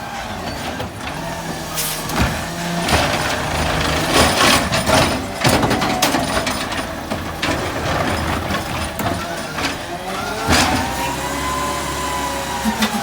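Rear-loader garbage truck running, with a series of knocks and clatters. Its engine note rises and then falls near the end.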